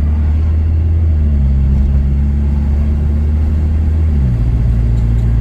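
Chevy Cruze's turbocharged four-cylinder engine running through an aftermarket downpipe and stock exhaust while driving, a steady low tone that drops in pitch about four seconds in, as in a gear change or easing off the throttle.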